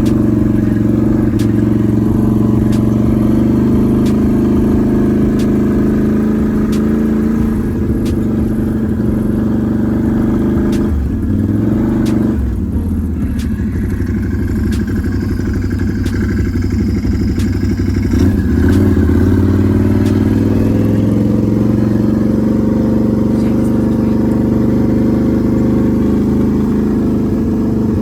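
Can-Am Renegade 1000 XMR ATV's V-twin engine running under way. Its pitch drops and climbs back a couple of times near the middle as the throttle is eased and opened.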